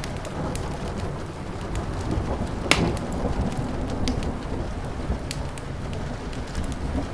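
Steady rain with a low rumble of thunder that swells in the middle, and scattered sharp pops and crackles from a fire, one loud crack about two and a half seconds in.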